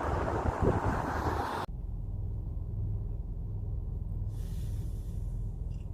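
Wind buffeting the microphone, cutting off abruptly about a second and a half in and leaving a steady low hum.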